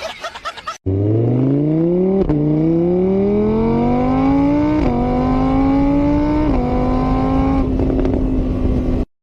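Car engine accelerating hard through the gears, its pitch climbing and dropping back at each of four shifts, then cutting off abruptly.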